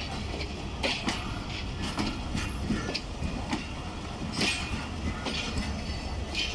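Pakistan Railways passenger coaches rolling past, a steady rumble of wheels on track broken by irregular sharp clicks, about one every half-second to second.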